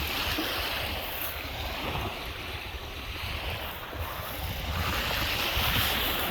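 Lake Michigan waves washing onto the shore, surging near the start and again about five seconds in, with wind buffeting the microphone as a low rumble.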